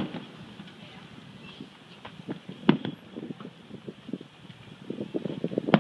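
Distant fireworks: a few sharp bangs roughly three seconds apart, with scattered smaller pops and a run of rapid crackling just before the last bang.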